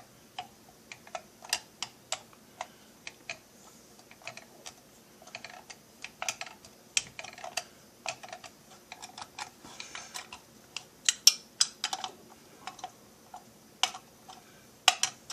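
Irregular light clicks and taps of hand tools and screws being handled while crankcase screws are run in by hand. They are sparse at first and come faster and louder in the last few seconds.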